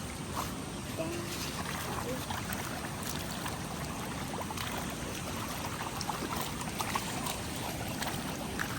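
Rainwater runoff flowing steadily: an even rushing hiss, with faint scattered ticks and splashes.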